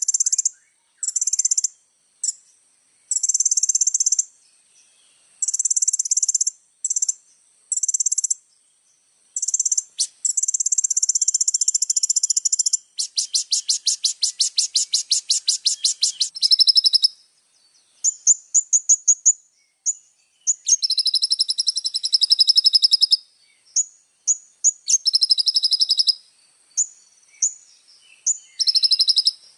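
Kolibri ninja sunbird singing a loud, very high-pitched song. It comes in short chattering phrases and quick chips, with a long fast trill about halfway through.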